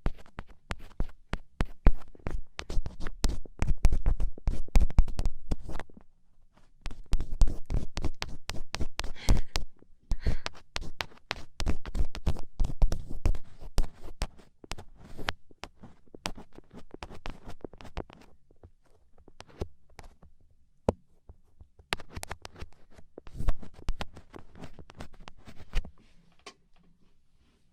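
Black ear pick scratching and scraping in quick, crackly, irregular strokes, as in ear cleaning. There are short pauses about six and ten seconds in, and a sparser, softer stretch past the middle before the strokes pick up again.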